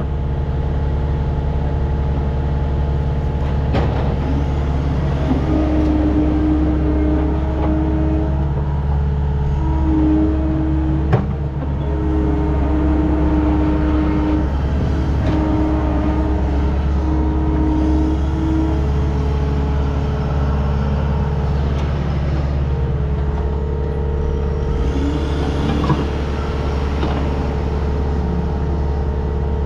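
Skid steer's diesel engine running steadily under load while it loads concrete rubble into a dump truck. A whine comes and goes several times, and there are a few sharp knocks.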